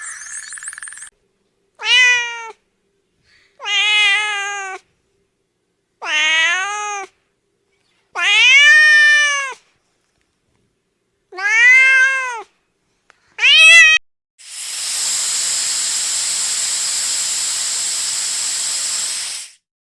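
A cat meowing six times, each meow rising and then falling in pitch, about two seconds apart. Near the end comes a steady hiss lasting about five seconds.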